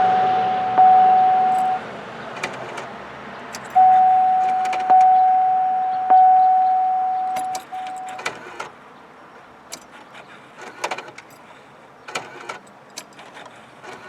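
A single-pitched chime dings about five times at uneven intervals, each ding starting sharply and fading slowly. After the last ding fades, a run of light clicks and small metallic rattles follows.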